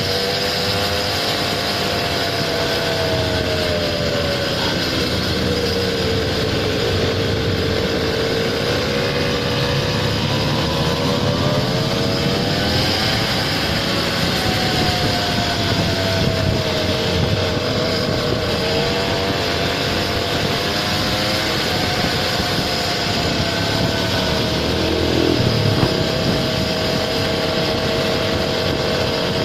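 Small engine of a motorized kick scooter running while riding, its pitch falling and rising as the throttle changes, over steady road and wind noise.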